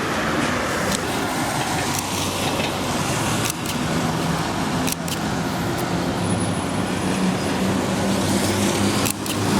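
Road vehicle in motion: a steady low motor hum over road noise, the hum growing stronger in the second half.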